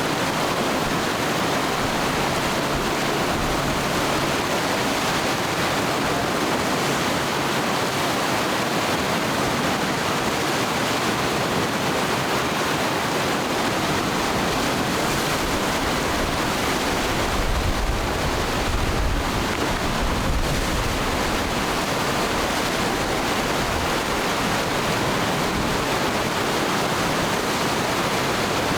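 Rapids of the Matanuska River at high flow: a steady, dense rush of water. A low rumble swells briefly about two-thirds of the way through.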